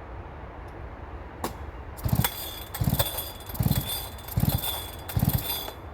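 Ported Husqvarna 3120XP chainsaw, its carburettor set slightly rich, sounding in five loud surges about three-quarters of a second apart over the last four seconds, then stopping abruptly.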